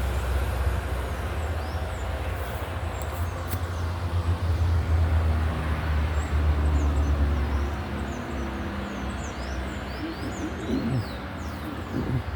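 Birds chirping in quick short falling notes, thickest near the end, over a steady low rumble that eases off about two thirds of the way through.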